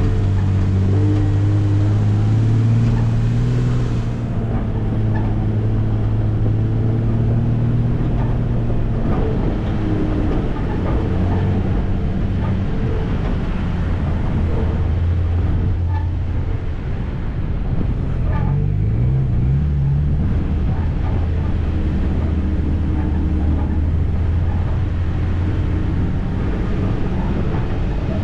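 Off-road vehicle's engine running at low revs that rise and fall a few times as it crawls along a trail, with a couple of light knocks midway.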